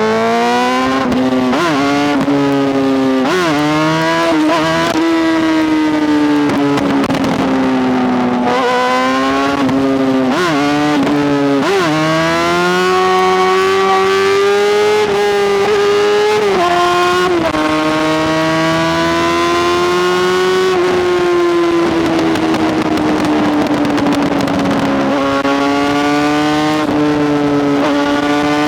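Honda CBR600RR's inline-four engine running under way, its pitch dropping and climbing sharply several times in the first dozen seconds as the throttle comes off and on, then holding a fairly steady pitch that rises and falls slowly.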